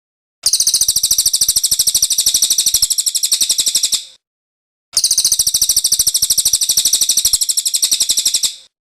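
Cililin bird song: a fast, high-pitched trill of rapidly repeated notes, lasting about four seconds, then repeated after a short pause.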